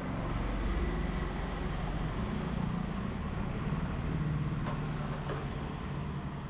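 A motor vehicle engine running steadily, with a low rumble.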